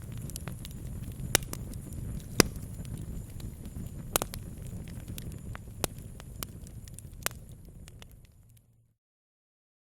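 Campfire crackling, with a low steady rumble and scattered sharp pops, the loudest about two and a half seconds in. Near the end it fades out to silence.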